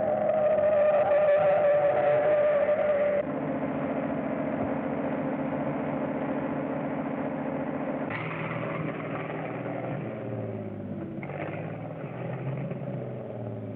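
Old film soundtrack of a motor vehicle's engine running steadily, the drone changing abruptly twice in pitch and character about 3 and 8 seconds in.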